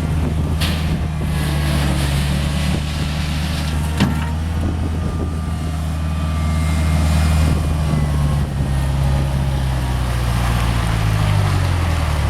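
Bobcat 743 skid steer's diesel engine running steadily, with a single sharp knock about four seconds in; near the end the engine speed drops toward idle.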